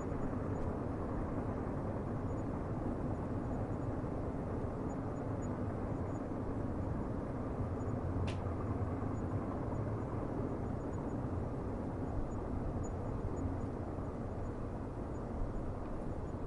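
Distant train rumbling steadily on the rails, a low even rumble, with a single sharp click about eight seconds in.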